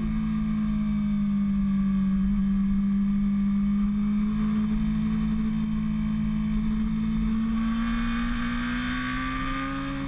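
Motorcycle engine running hard at high, fairly steady revs on a track, its pitch sagging a little and then climbing again over the last couple of seconds.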